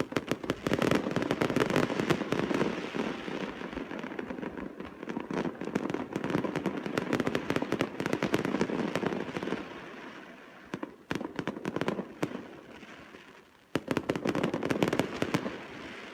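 Fireworks display: a dense, rapid string of bangs and crackling. It thins out about ten seconds in and builds up again a few seconds later.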